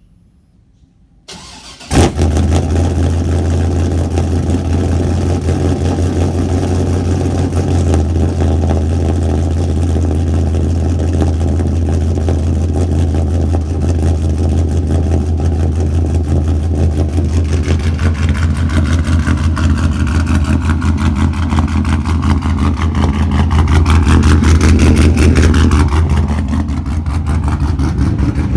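Cammed GM 5.3-litre V8 with a straight-piped exhaust (headers, X-pipe, no mufflers) cold-starting: a brief crank, then it catches about two seconds in with a loud bark. It settles into a loud, steady cold-start idle, rising a little in loudness toward the end.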